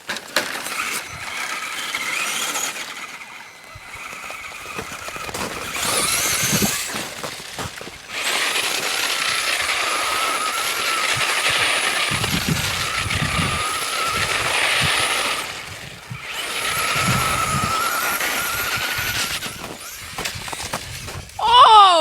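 Radio-controlled toy truck's electric motor whining as it drives, its pitch wavering with the throttle, in several runs with short pauses between them.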